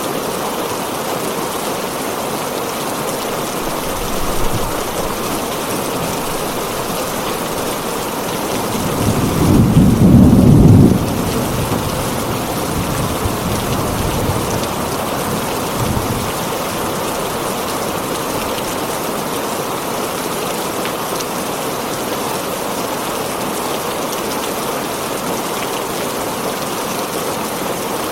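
Heavy rain drumming steadily on a tin roof, with a loud roll of thunder about ten seconds in and two faint low rumbles before and after it.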